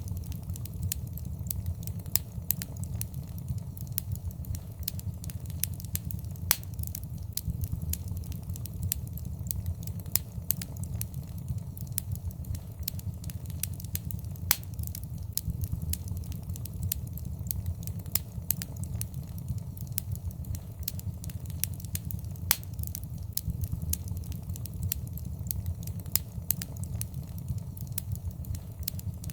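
Wood fire burning in a fireplace: a steady low rumble of flames under constant irregular crackling, with a few louder sharp pops.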